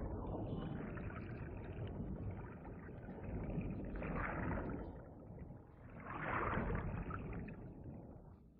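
Water splashing and churning in a shallow stream as spawning salmon thrash and jostle, with louder bursts of splashing about four seconds in and again around six seconds in.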